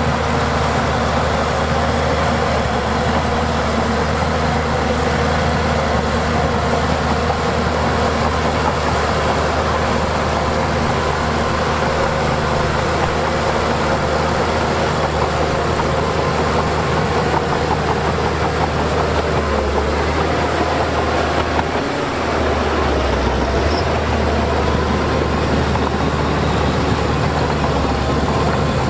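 Heavy diesel earthmoving machinery running steadily under load, a constant low engine drone with a wavering higher whine over it. The low drone briefly shifts about three quarters of the way through.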